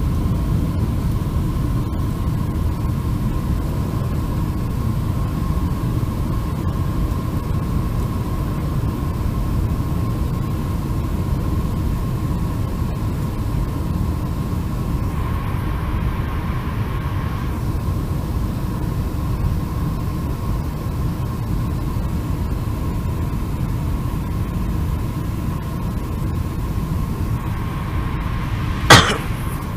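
Steady low rumble of a Boeing 747-400's jet engines and airflow, with a faint steady whine-like tone above it. One sharp knock sounds near the end.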